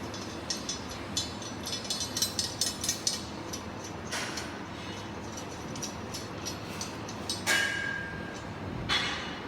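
PVC flexible duct-forming machine running with a steady hum and a quick run of metallic clicks and rattles. Near the end come two short hissing bursts, the first carrying a brief whistle-like tone.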